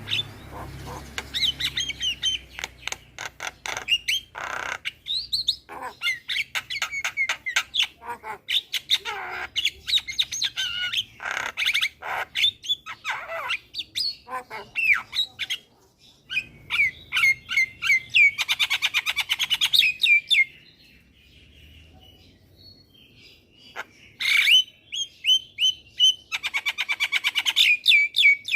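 Javan myna singing: a fast, chattering song of clicks, rattling trills and short whistles. It twice breaks into a rapid rattling run and falls nearly quiet for a few seconds about two-thirds of the way through.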